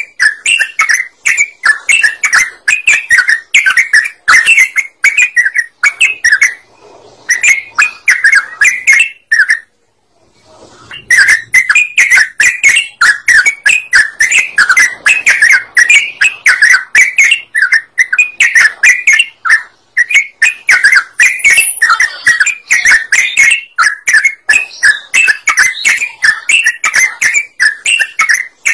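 Yellow-vented bulbul (trucukan) singing vigorously: a dense, unbroken run of quick chattering notes, broken by a short silence about ten seconds in. This is a lure call meant to draw in other birds.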